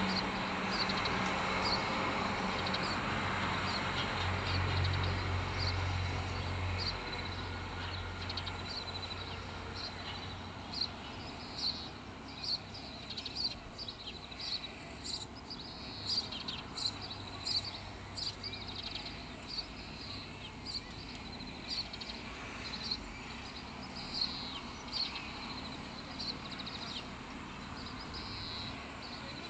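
Small birds chirping in short, high, irregular calls, coming thick and fast from about ten seconds in. A low rumble underneath fades away over the first ten seconds.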